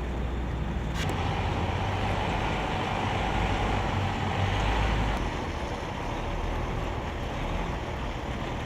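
Heavy military truck's diesel engine running steadily. A sharp click about a second in is followed by a steady whine that stops about five seconds in.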